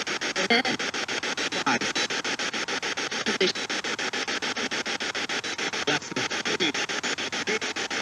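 Spirit box sweeping radio stations: hiss chopped into rapid, even pulses, with brief snatches of broadcast sound breaking through.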